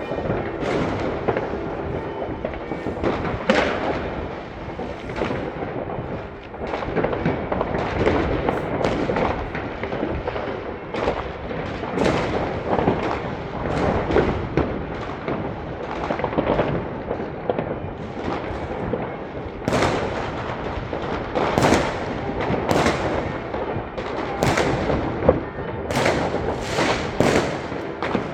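Fireworks and firecrackers going off in a dense, unbroken barrage of overlapping bangs and crackles, with a run of sharper, louder reports in the last third.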